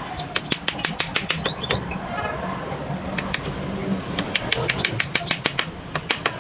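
Small hammer tapping nails into the legs of a bird cage: quick runs of light, sharp taps, several a second, broken by short pauses.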